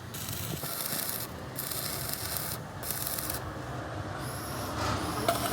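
Abrasive rubbing on a surface in repeated strokes: a scraping hiss that breaks off briefly between strokes, with a faint high whine near the end.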